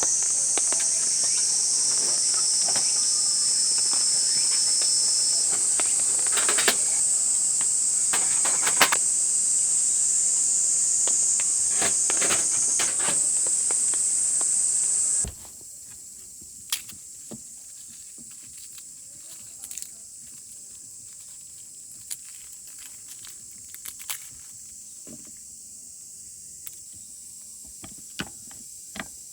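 Insects chirring in a loud, steady, high-pitched drone with a few scattered clicks; about halfway through it cuts off suddenly, leaving a much quieter background with faint insect sound and occasional small clicks.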